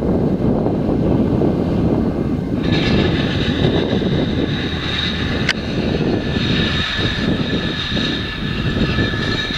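Potato harvesting machinery running under load: a heavy diesel drone with a high, steady whine joining about three seconds in, and one sharp click near the middle.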